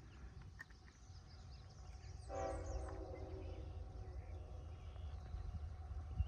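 Distant diesel locomotive horn sounding one short chord about two seconds in, from the approaching CN freight train, over a faint low rumble.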